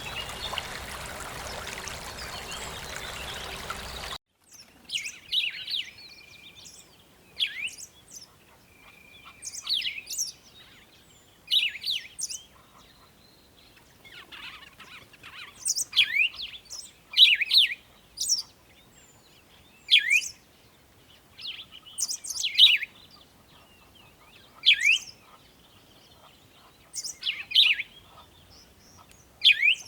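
Running water for the first four seconds, cut off suddenly. Then birds call in short, sharp chirps that sweep steeply in pitch, one every second or two, against a quiet background.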